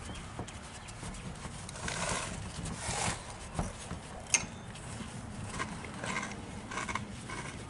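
Scrubbing and scraping on a carburetor body with a brush and a small flathead screwdriver to dig out old gunk, with scattered small clicks of tool on metal and one sharp click about four seconds in.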